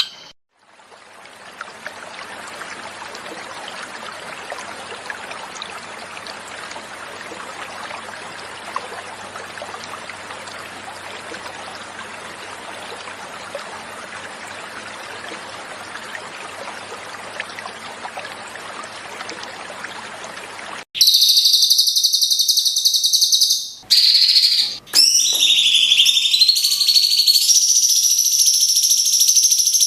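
Flowing water, a steady even rush, for about twenty seconds. Then a cucak cungkok's song cuts in abruptly and loud: high, clear, held whistled notes with a couple of brief breaks.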